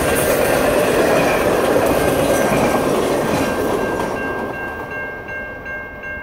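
Intermodal freight train's last cars rolling over the track and clattering past, the rumble dying away after about four seconds as the train clears. The grade crossing's warning bell keeps ringing in a steady repeating pattern and is left on its own near the end.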